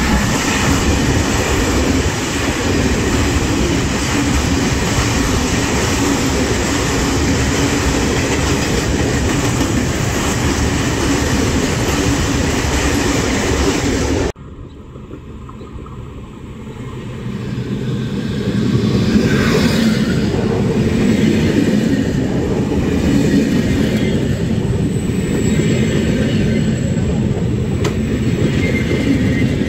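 Freight train hauled by an E494 electric locomotive with Eanos open wagons passing along the platform: a dense, steady, loud rumble of wheels on rail that cuts off abruptly about halfway. Then a Trenitalia Vivalto double-deck regional train approaches, its rumble building over several seconds to a similar loudness, with a falling tone passing through and a thin high tone near the end.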